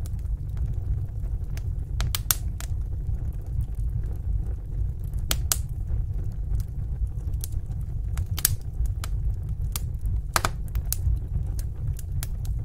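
Wood fire burning in a fireplace: a steady low rumble of the flames with irregular sharp crackles and pops, several a second at times.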